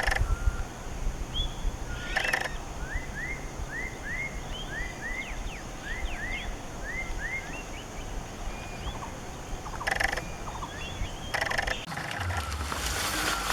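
A bird calling a quick series of short, rising whistled notes, about two a second for several seconds, with a few fainter calls around it. Brief noises break in a few times.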